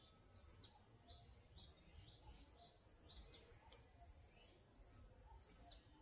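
Wild birds chirping: three louder bursts of short, high calls about two and a half seconds apart, with fainter chirps between them.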